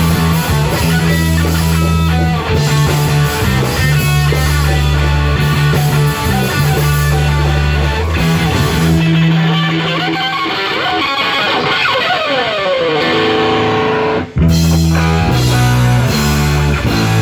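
Rock band playing live, with electric guitar and bass carrying a heavy riff. About nine seconds in the bass drops away and guitar notes slide down in pitch. A sudden brief stop comes around fourteen seconds in, and then the full band comes back in.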